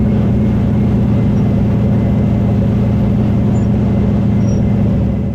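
Dirt late model race car engine running hard and steady at an even pitch, cutting in abruptly just before this moment.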